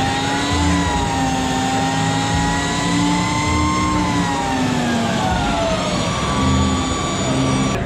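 Harley-Davidson LiveWire electric motorcycle's motor whining, its pitch rising slowly for about four seconds and then falling as it speeds up and slows down.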